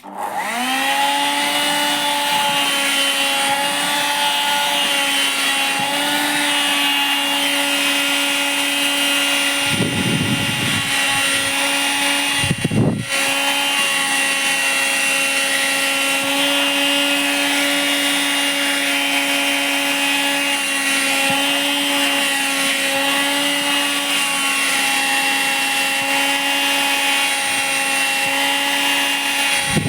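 Vacuum cleaner switched on, its motor whining up to speed within a second, then running steadily as it sucks at cloth gym clothes. A low fluttering comes in twice, about ten and thirteen seconds in, while the fabric is drawn against the nozzle.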